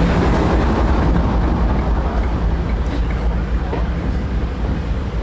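Class 58 diesel-electric locomotive running, a loud low rumble with a steady hum that drops away about a second in, the whole sound slowly fading.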